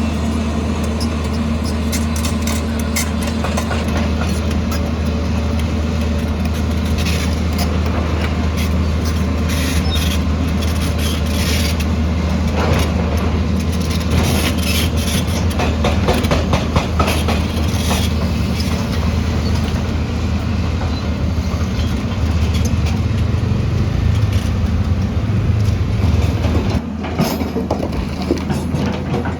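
Heavy construction machine's diesel engine running steadily, with scattered metallic clanks and rattles. The engine note rises for a few seconds and drops back near the end.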